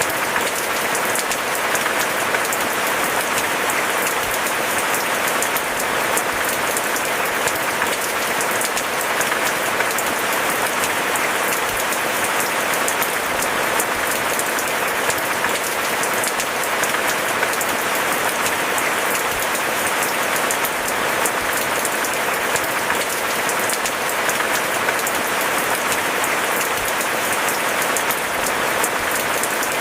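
Steady rain, a dense, even patter of drops with no thunder and no change in strength.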